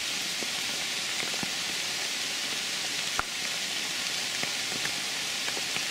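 Pouring rain: a steady hiss with scattered drop ticks and one sharper tap about three seconds in.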